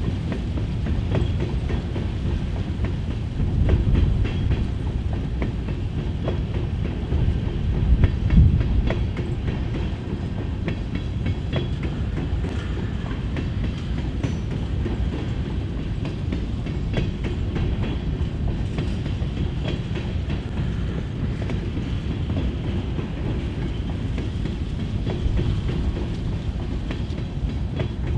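Empty covered hopper cars of a freight train rolling past: a steady low rumble of steel wheels on rail with irregular clicks, and heavier thumps about 4 and 8 seconds in.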